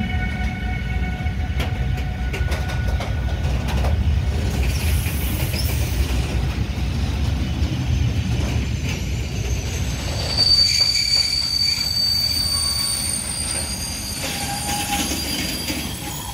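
Eaos open coal wagons of a freight train rolling past at close range: a steady rumble of wheels on rail with scattered clicks. A thin, high wheel squeal comes and goes over it, loudest around two-thirds of the way through.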